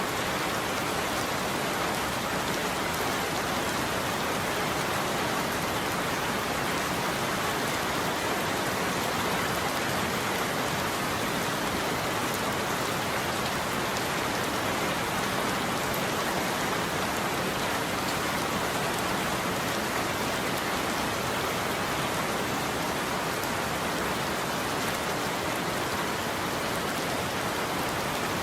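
Steady heavy rain falling: an even, unbroken hiss of rain with no thunder.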